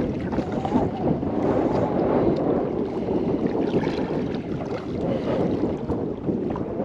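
Wind buffeting the microphone over water moving around a small kayak: a steady rushing noise that rises and falls, with no clear separate events.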